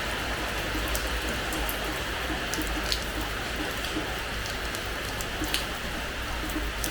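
Steady rain falling on a hard terrace floor, a constant hiss with scattered sharp drop splats, two of them louder, about three and five and a half seconds in.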